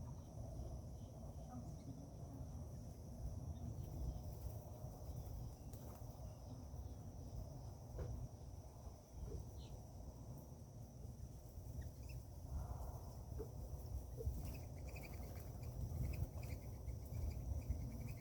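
Outdoor garden ambience: a steady high-pitched insect drone, like crickets, over a low rumble, with a few light taps and, in the last few seconds, faint short bird chirps.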